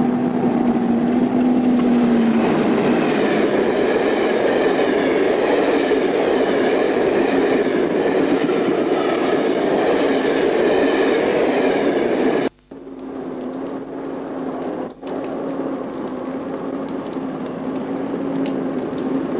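British Rail diesel locomotive running past with a steady engine hum under loud wheel-on-rail noise. About twelve seconds in the sound cuts off abruptly and gives way to a quieter, steady engine hum.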